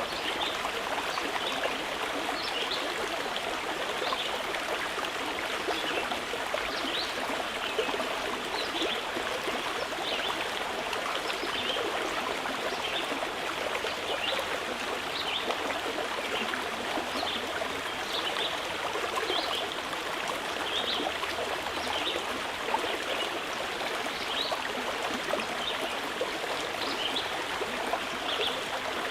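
Mountain river flowing steadily: a continuous rush and babble of running water, with many short high sounds scattered through it.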